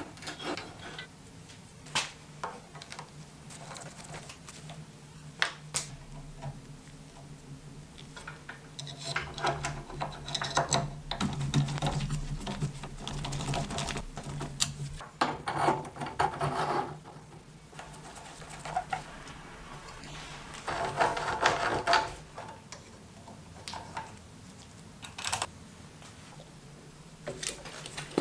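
Scattered clicks and clatter of small hard parts or hand tools being handled, busier in two stretches, over a steady low hum.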